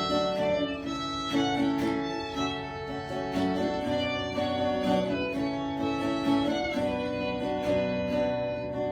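Violin playing a folk melody over a plucked-string accompaniment: the instrumental introduction to a ballad.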